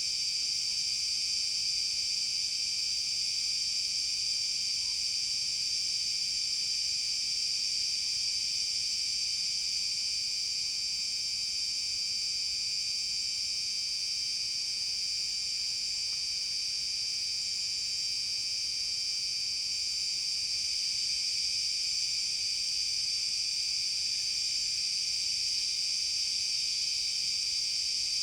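A dense forest insect chorus: a continuous high-pitched shrill that holds steady throughout, with no pauses.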